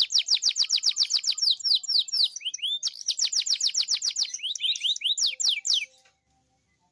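Domestic canary in full song: long, fast trills of repeated downward-sweeping notes, about ten a second, with a short change of phrase partway through, ending about a second before the end.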